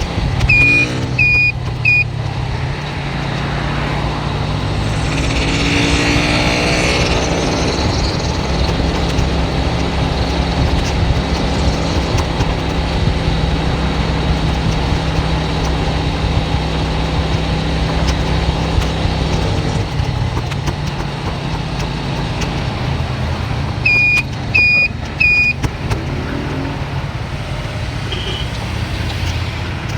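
Steady engine and tyre drone of a moving car, heard from inside the cabin, with a louder swell about six seconds in. Near the start, and again about 24 seconds in, there are three quick high-pitched electronic beeps.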